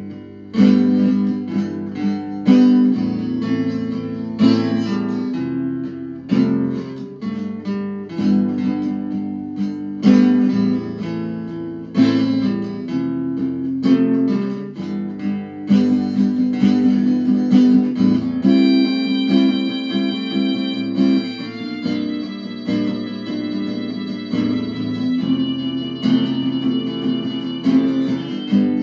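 Guitar music: chords strummed and plucked in a steady pattern, with longer ringing notes in the second half.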